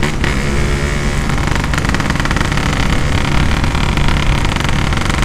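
Yamaha RX-King's two-stroke single-cylinder engine running loud through a 'setengah dewa' aftermarket exhaust, its pitch wavering with the throttle.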